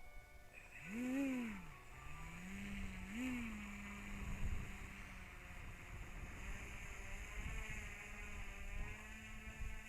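Electric outrunner motor and 13x8 propeller of a foam RC airplane whining, its pitch swelling up and back down twice in the first few seconds and then holding steady. Wind rumbles on the microphone throughout.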